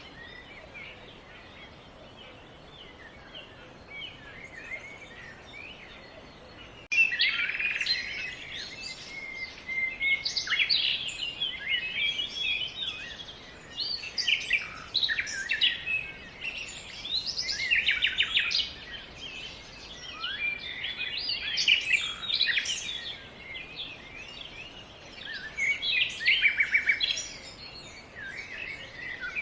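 Small birds singing and chirping over a faint outdoor background, quiet at first, then suddenly much louder and busier from about seven seconds in, with many quick, overlapping calls and trills.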